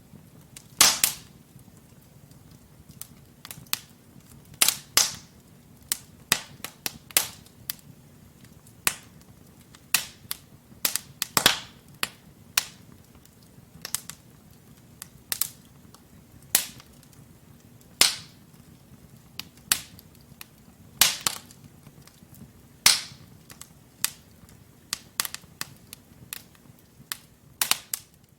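Wood fire burning in a fireplace: burning logs crackling with irregular sharp pops and snaps, some loud and some faint, over a low steady rumble of the flames.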